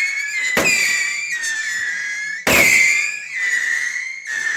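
Whistling fireworks firing: three sharp cracks, about a second in, midway and near the end, each followed by a shrill whistle lasting a second or two, with several whistles overlapping and dipping slightly in pitch.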